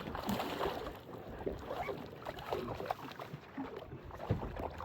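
Water slapping and lapping against the hull of a small drifting fishing boat, with irregular short splashes and knocks.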